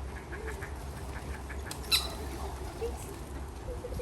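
Birds calling at a feeding spot: a run of short chirps and one sharp, loud squawk about two seconds in, over a steady low rumble.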